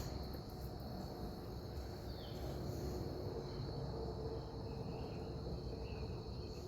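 Quiet outdoor ambience: a low steady rumble with a thin, unbroken high tone over it, and one faint short falling chirp about two seconds in.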